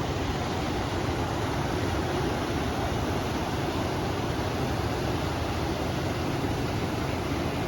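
River water rushing steadily, with wind. The sound is an even, unbroken noise with a heavy low rumble.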